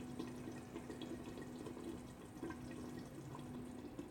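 Onion-tomato masala simmering in a covered wok on low heat: faint, irregular bubbling and small pops over a steady low hum.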